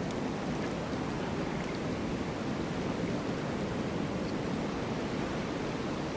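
Snowstorm wind blowing as a steady, even rush without gusts or breaks.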